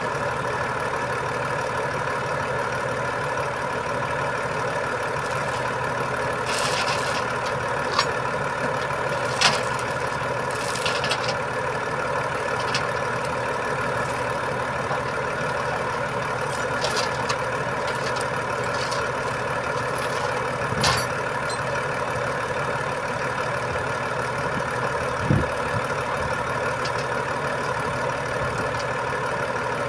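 Heavy diesel truck engine running steadily at idle, with a few short knocks or clanks.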